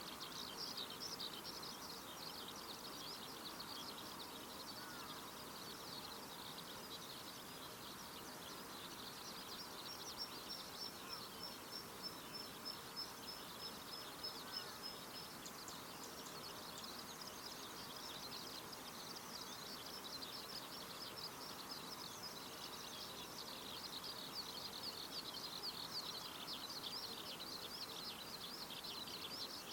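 Outdoor ambience full of small birds chirping continuously, with a fast, thin high trill for about five seconds near the middle.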